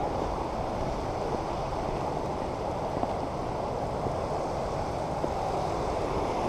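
Steady rushing of river water pouring over a waterfall cascade.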